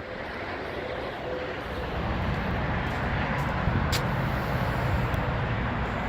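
Steady low rumble of a vehicle engine running, a little louder from about two seconds in, with one sharp click near four seconds.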